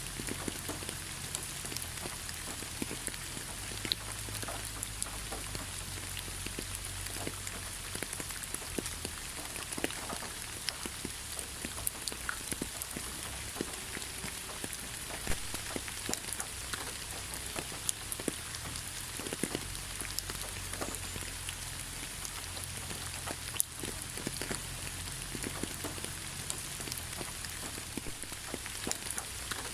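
Steady rain in a tropical rainforest, with many separate drops hitting close by as distinct ticks over an even hiss.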